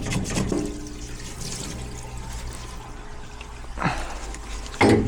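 Cleaning solvent running and splashing in a parts washer as differential parts are washed.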